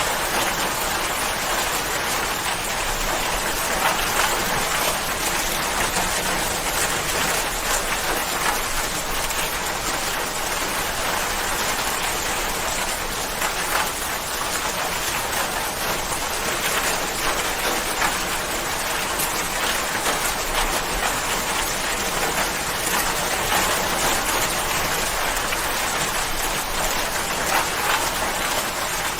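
Steady heavy rain falling, an even rushing hiss with many small drop patters, no thunder.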